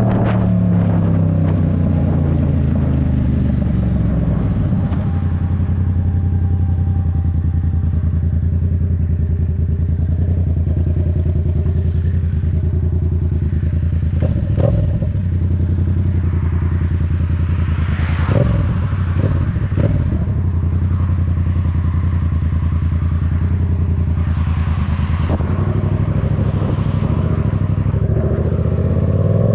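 Yamaha MT-07 parallel-twin engine dropping from revs to a steady idle, running at idle for most of the time, then revving up again near the end. A few clattering knocks come in the middle.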